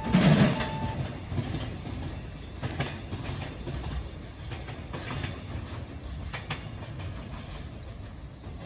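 Train passing, its wheels rolling with a steady rumble and clicking over rail joints in pairs as each bogie goes by, loudest in the first second.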